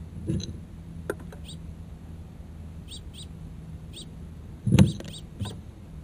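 Short, high bird chirps scattered through, over a steady low hum, with a loud thump about three-quarters of the way through and a smaller one just after.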